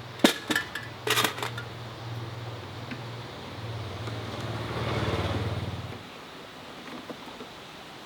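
A few sharp metallic clanks, then a low mechanical hum that swells and cuts off abruptly about six seconds in.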